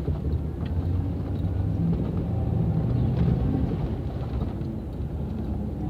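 Steady low rumble of a motor vehicle driving along, with an even engine hum.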